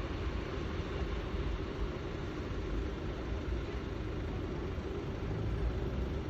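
A train running past on the line, heard as a steady low rumble with no distinct wheel clatter.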